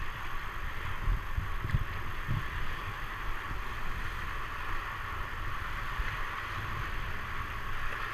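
Wind buffeting the microphone in low irregular thumps, strongest in the first couple of seconds, over a steady high hiss of outdoor ambience.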